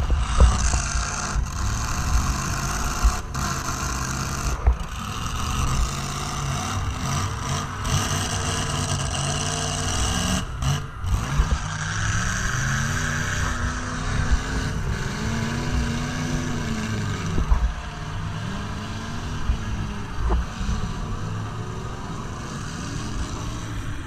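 Demolition derby car engine revving hard, its pitch rising and falling again and again as the car drives back and forth, with occasional sharp bangs.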